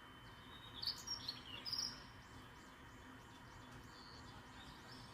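Small bird chirping over a low background hiss: a quick cluster of loud, sharp high calls about a second in, then fainter chirps repeating.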